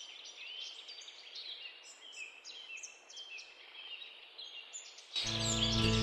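Small birds chirping repeatedly, short arched calls over a faint background hiss. About five seconds in, background music comes in loudly.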